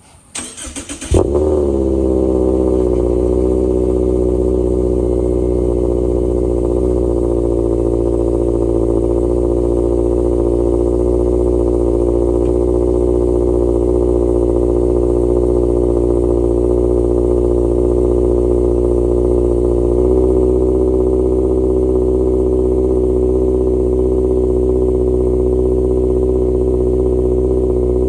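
Subaru XV's flat-four boxer engine being started through an upgraded aftermarket exhaust: a short crank, then it catches about a second in with a brief flare and settles into a steady idle.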